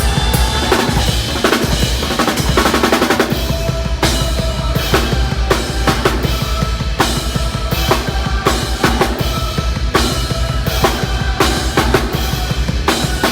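Live heavy metal band playing loud, the drum kit driving it with fast, dense bass-drum and snare hits under a thick wall of band sound.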